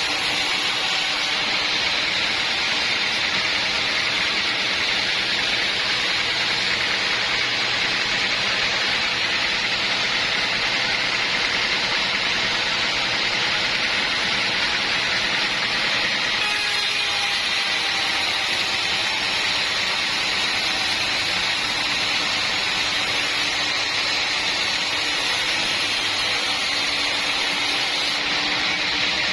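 Sawmill saw running and cutting through an acacia log: a steady, loud noise with a slight change in tone about halfway through.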